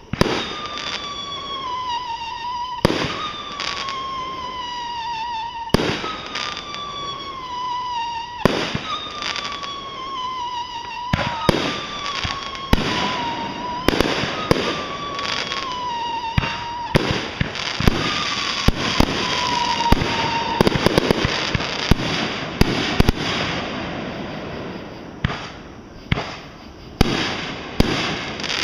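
Fireworks going off: loud bangs about every three seconds, each followed by a whistling tone that slowly falls in pitch. Later comes a dense stretch of rapid crackling bursts, then a few last bangs near the end.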